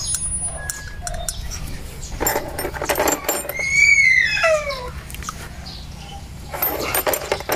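A dog whining once, a single long cry falling steeply in pitch, about halfway through. Around it, short bursts of knocks and clatter, and a steady low hum underneath.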